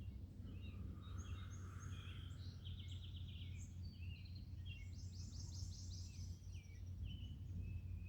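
Several wild birds singing and calling, with short chirps and two fast trills, about three seconds in and about five seconds in. A steady low rumble runs underneath.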